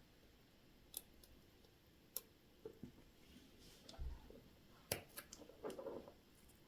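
Near-quiet room tone with a few sharp small clicks spaced a second or more apart, a soft low thump midway and a brief muffled rustle near the end: small tools and parts being handled at a watchmaker's bench.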